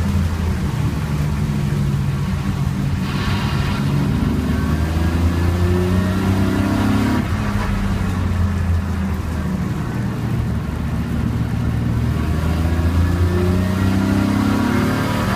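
BMW E36 328i race car's 2.8-litre straight-six heard from inside the cabin, its note rising and falling as the car accelerates out of corners and slows into them.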